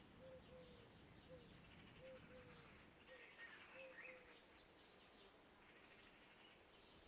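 Faint birdsong: a dove cooing a repeated three-note phrase that stops about two-thirds of the way through, with small songbirds chirping and twittering higher up.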